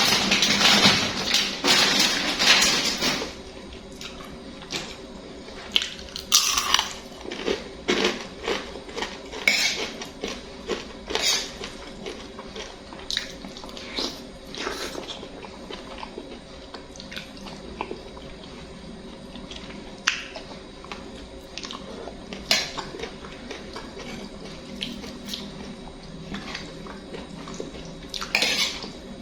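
Someone eating instant noodles from a bowl: cutlery clinking and scraping against the dish, with scattered short eating noises. A loud, dense rush of noise fills the first three seconds.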